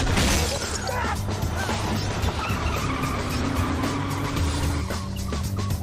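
Car-chase soundtrack: car engines running under dramatic music, with a loud burst of noise right at the start and short tyre squeals about a second in and again near the end.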